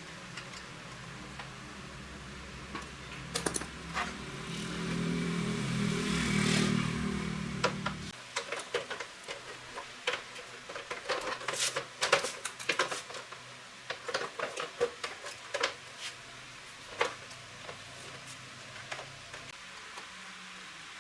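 Restored Yamaha 115cc motorbike engine running, revved up briefly, then cutting off abruptly about eight seconds in. Scattered sharp clicks and knocks follow.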